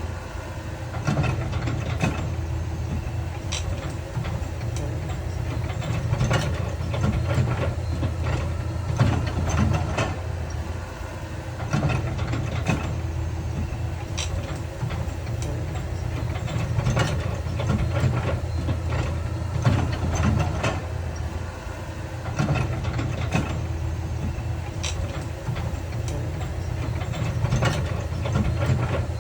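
Heavy diesel earthmoving machinery running, a steady low rumble that swells and eases, with frequent irregular clanks and knocks of metal and rock.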